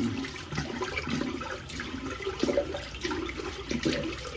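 Water running and splashing in a bathroom sink.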